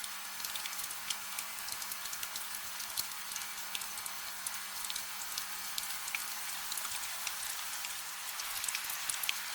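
Steady gentle rain: an even hiss with many small, sharp raindrop ticks, and no thunder.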